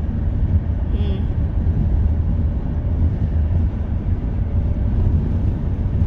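Steady low road rumble and engine noise inside a moving car's cabin.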